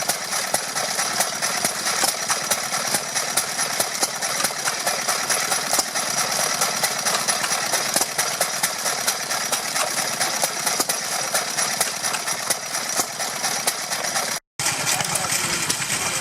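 Vintage stationary engines running, a steady, dense mechanical clatter of rapid knocks. The sound cuts out for a split second near the end.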